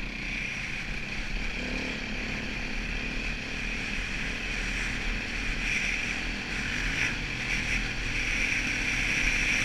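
KTM 450 EXC enduro bike's single-cylinder four-stroke engine running steadily under throttle, heard from a helmet camera, growing slightly louder through the run.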